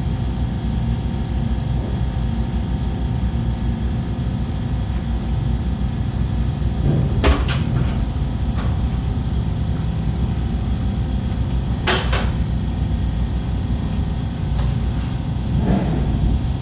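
A steady low mechanical rumble, with a few sharp metal clanks of tools or parts being handled: a pair about seven seconds in, one more a second later, and a louder pair about twelve seconds in.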